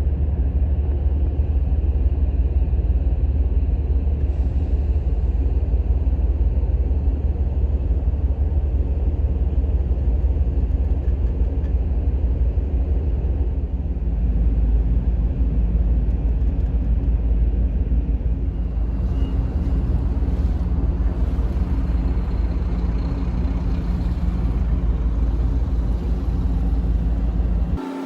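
Large car ferry under way, a steady deep rumble of its engines mixed with the rush of water along the hull and wake.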